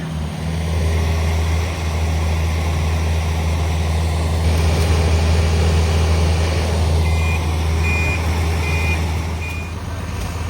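Truck engine running steadily with a low hum, while a reversing alarm beeps four times in the last few seconds, about one beep a second.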